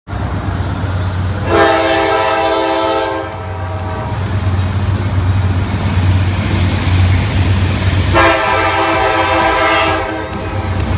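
Freight locomotive air horn sounding two long blasts, each about two seconds, over the steady low rumble of the diesel engine.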